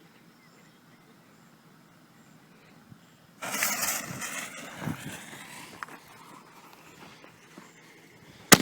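Consumer artillery canister shell fired from a mortar tube: a sudden launch whoosh a little over three seconds in, fading over a few seconds, then near the end a single sharp, loud bang as the shell bursts in the air.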